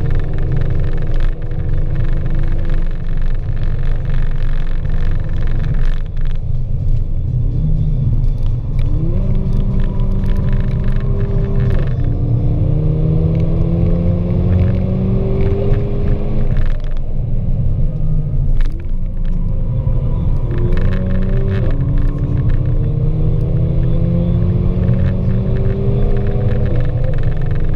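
Mercedes-AMG A45's turbocharged four-cylinder engine, heard from inside the cabin while lapping a race track. Its pitch climbs hard several times under full acceleration and drops sharply at gearchanges and braking, over a constant heavy rumble from the road and tyres.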